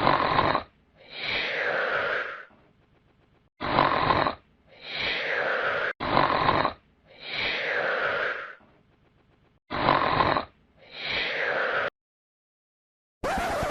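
Snoring sound effect: four slow snores, each a short rasping intake followed by a longer breathy exhale, repeating about every three seconds. A different, brighter sound cuts in briefly near the end.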